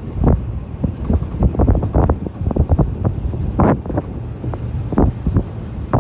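Wind buffeting the microphone, a heavy low rumble, with frequent irregular knocks and rattles throughout.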